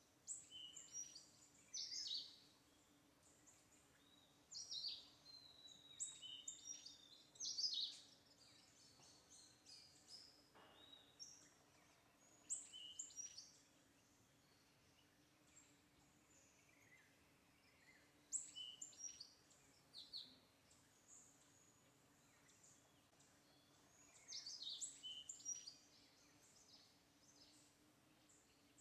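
Small birds chirping and twittering in short, irregular bursts every few seconds, over a faint steady low hum.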